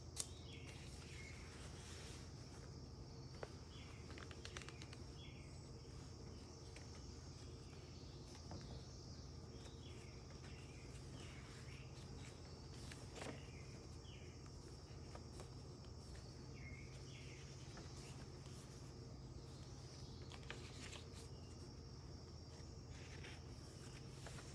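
Faint outdoor ambience: short bird chirps scattered over a steady high insect drone and a low hum, with a few soft clicks.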